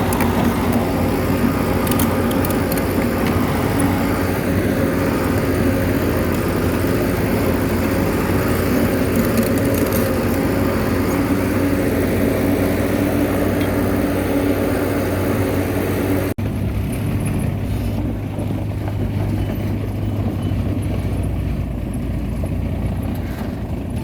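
Heavy diesel engine of earthmoving machinery running steadily. About two-thirds of the way through the sound changes abruptly and becomes duller.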